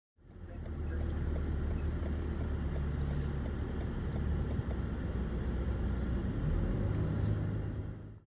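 Steady low rumble of a moving vehicle, with a faint hum that shifts in pitch near the end.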